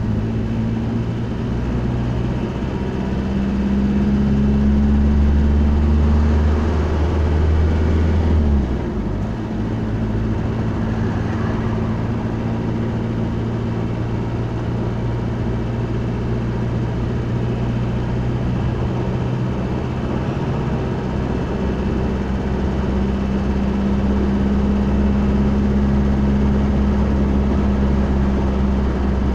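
Motor vehicle engine and road noise from inside a moving vehicle, a steady low drone. About eight seconds in the engine note drops and changes, as at a gear change or easing off the throttle.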